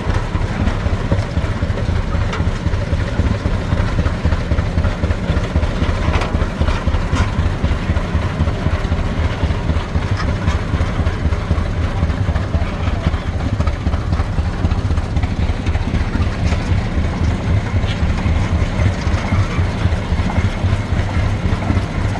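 Engine running steadily with a low, rapid, even pulsing beat.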